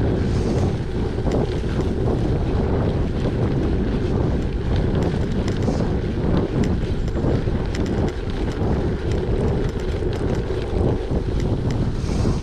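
Wind buffeting the microphone of a gravel bike being ridden, over the steady rumble of the bike and its tyres, with many small ticks and crackles.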